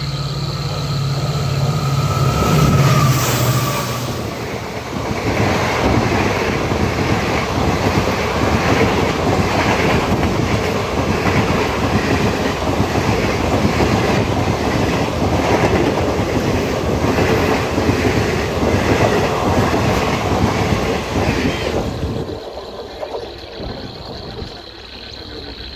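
An oncoming passenger train passing at speed on the adjacent track, heard from the open door of a moving train. The locomotive goes by first with a loud low drone. Then the coaches rush past with a rapid, rhythmic clatter of wheels for about seventeen seconds, which drops off suddenly near the end as the last coach clears, leaving the quieter running of the train being ridden.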